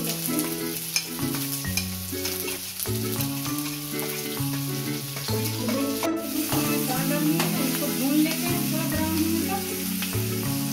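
Chopped onion, garlic and green chillies sizzling in hot oil in a metal kadhai, with the spatula scraping and ticking against the pan as they are stirred. A background music track plays underneath.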